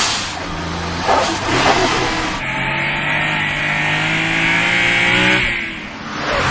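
Car engine running hard at high revs, its note stepping to a new pitch about a second in and again a little later. It falls away near the end, then swells again as a car rushes past.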